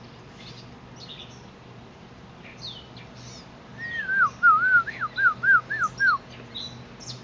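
A run of about seven clear, slurred whistled notes, each dipping and rising, starting about four seconds in and lasting some two seconds, most likely a person whistling. Small birds chirp faintly and high-pitched in the background throughout.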